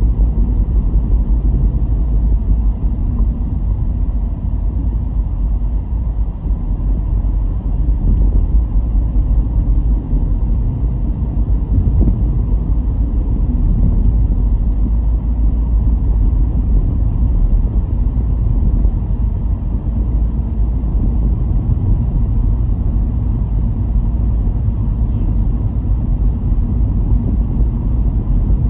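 A car being driven, giving a steady low rumble of road, tyre and engine noise.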